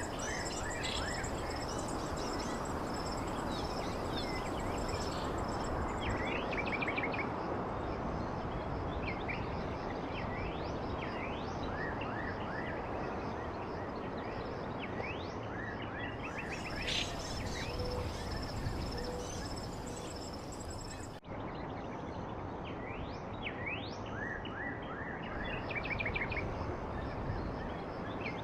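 Small birds chirping, with short quick chirps and rapid trills coming over and over, over a steady rushing background noise and a thin, steady high tone. A brief sudden dropout comes a little past two-thirds of the way through.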